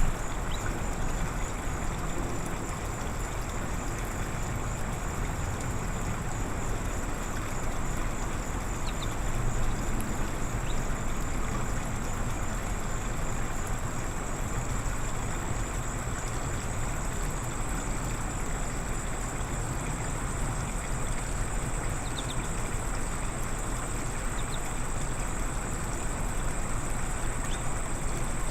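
Steady outdoor background noise: a constant low rumble and an unbroken high thin tone, with a few brief high chirps from birds scattered through.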